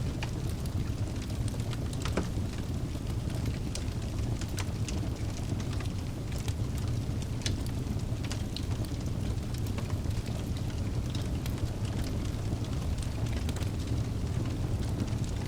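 Wood fire burning in a fireplace: a steady low rumble of flames with scattered crackles and pops of burning logs.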